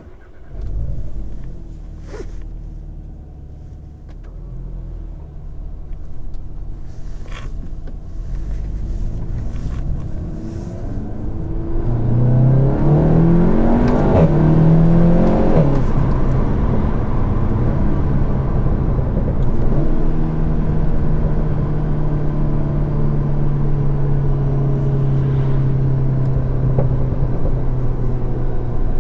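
Seat Leon Cupra 300's turbocharged 2.0-litre four-cylinder on its stock exhaust, heard from inside the cabin. The engine note comes in sharply about a second in and runs low and steady, then rises in pitch and drops back several times in quick gear changes between about 12 and 16 seconds, before settling into a steady cruising drone.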